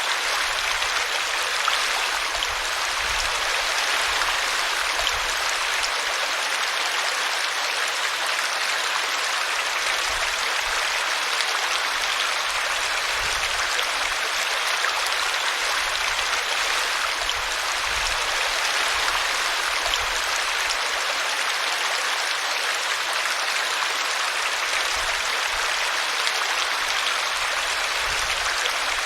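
Small brook running over a tree root, a steady rush of flowing water.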